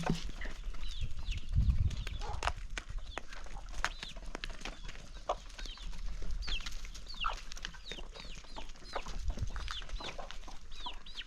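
Chickens clucking and calling with many short, high, quick calls while they peck at feed, giving frequent sharp taps. A brief low rumble comes about two seconds in.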